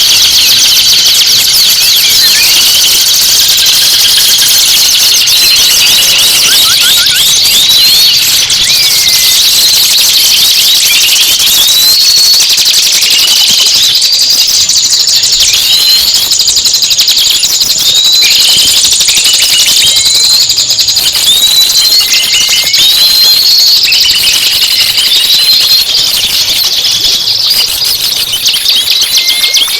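Loud, dense songbird song: rapid high chirping and trilling layered with repeated hooked whistle notes, about one every second or so.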